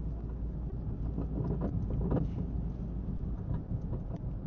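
A car driving on city streets: a steady low rumble of engine and tyre noise.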